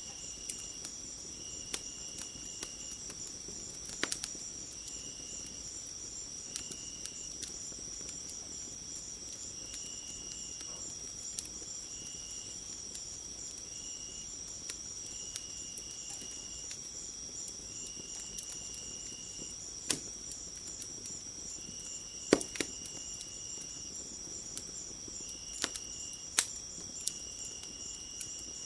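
Crickets chirring in a steady high chorus, with a second insect giving short trills every second or two. Occasional sharp pops and crackles of a burning wood fire come through, the loudest about two-thirds of the way in.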